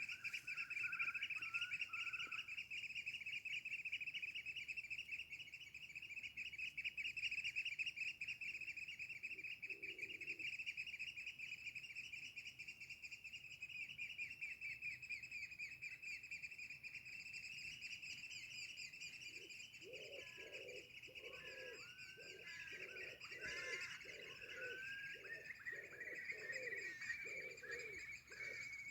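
Birds singing: a continuous high, fast trilling song. About twenty seconds in, a lower call joins it, repeated about twice a second.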